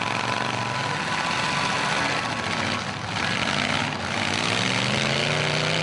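Several demolition derby cars and trucks running their engines hard at once, with one engine revving up about four and a half seconds in.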